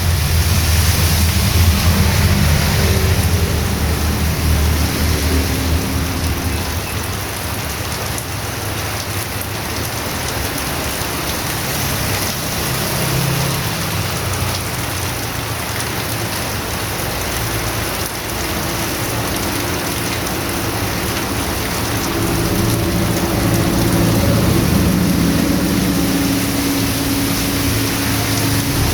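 Heavy rain pouring down steadily. A low rumble swells at the start and again near the end.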